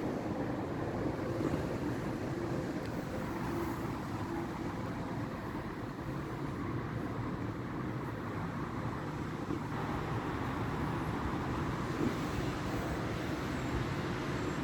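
Domestic cat purring steadily and continuously, a low rumble with a fast, even pulse.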